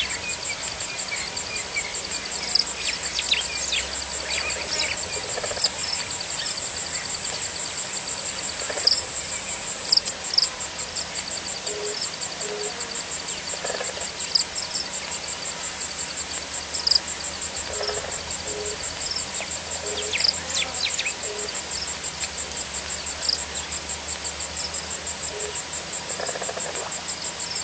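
Steady chorus of insects, crickets among them, trilling in a rapid high pulse. Scattered short bird calls and brief low notes sound over it.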